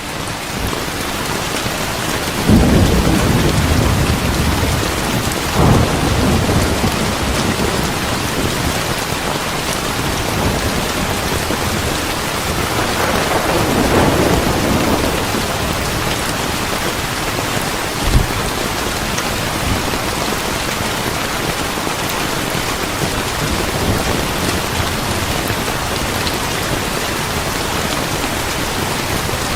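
Steady rain falling, with rolls of thunder: a long rumble a few seconds in, another in the middle, and a short sharp clap a little past halfway.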